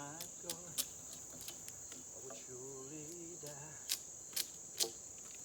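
Steady, high-pitched drone of insects, with a few sharp knocks scattered through it, the loudest three close together near the end.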